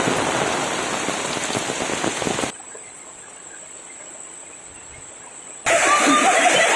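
Heavy rain pouring down, a dense steady hiss. About two and a half seconds in it drops suddenly to a much quieter rain with a faint steady high-pitched tone, and the loud downpour returns suddenly near the end.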